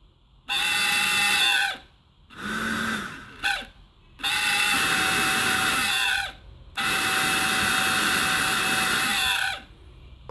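Small 12-volt DC motor running off a repaired 12 V car battery, switched on and off in several runs of one to three seconds. It whines at a steady high speed, and the pitch falls as it winds down after each run. It runs strongly on the battery, which is called very, very strong.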